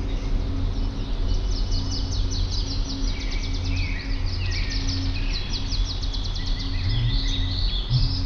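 Several songbirds singing and chirping, one of them a fast, dry trill of rapid ticks for several seconds, over a steady low hum.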